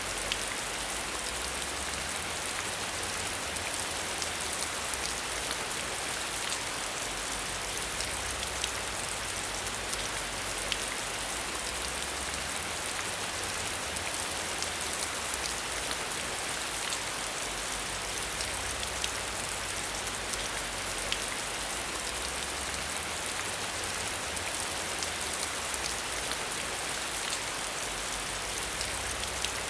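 Steady rain falling and pattering on a surface, with many fine drop ticks over an even hiss.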